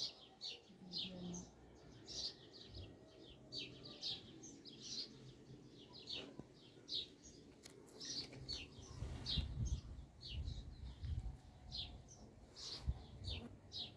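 Small birds chirping: short, high, downward-sliding chirps repeating about twice a second. A low rumble joins in about halfway through.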